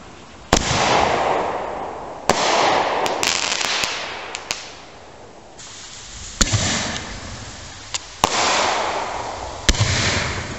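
Backyard aerial fireworks going off in a series: about half a dozen sharp bangs, one every one to two seconds, each followed by a rushing hiss that dies away. A few small crackling pops come around three to four seconds in.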